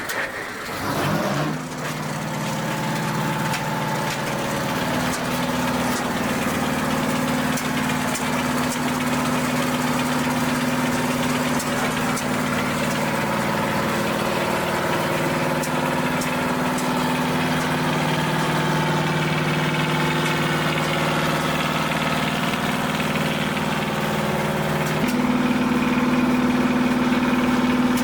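Tractor engine running at a steady idle after picking up speed just after the start, then stepping up to a slightly faster, louder run about 25 seconds in.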